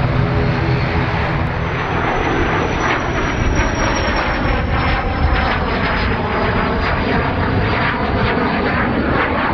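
ATR 72-500 turboprop airliner's twin Pratt & Whitney PW127 engines running loud and steady during its landing, with a high whine that slowly falls in pitch.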